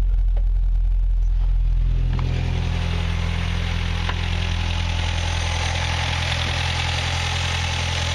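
1965 Datsun PL320 pickup's four-cylinder engine idling steadily. About two seconds in its sound changes, turning brighter and noisier.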